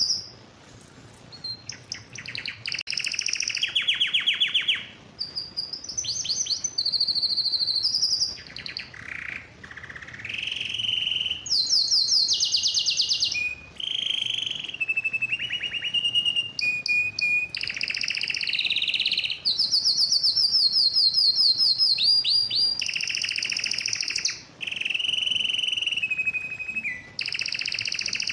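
Male domestic canary singing a long, continuous song of rapid trills, switching from one repeated phrase to the next every second or two.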